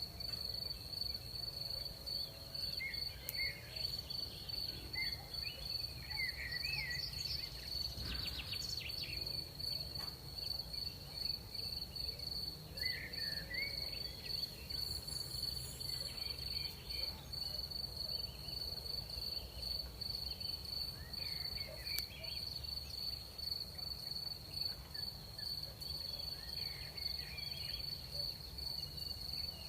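Night crickets chirring in a steady high-pitched chorus, with a few short warbling calls scattered through it.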